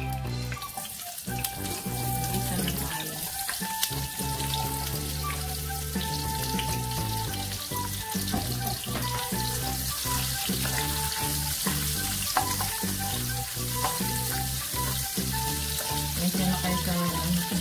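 Sliced onion hitting hot oil in a nonstick wok and sizzling, the hiss building up about half a second in and then frying steadily, with light clicks of a plastic spatula stirring it.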